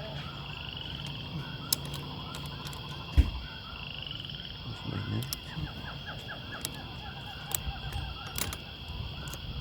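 Outdoor ambience of steady insect buzzing with rows of short chirping, croak-like animal calls and a couple of rising trills. A low hum fades after about three seconds, and a few sharp knocks stand out, the loudest about three seconds in.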